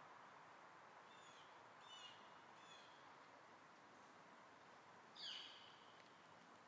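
Quiet outdoor ambience with a faint steady hiss, broken by a few short high bird chirps between one and three seconds in and a single louder, downward-sweeping bird call about five seconds in.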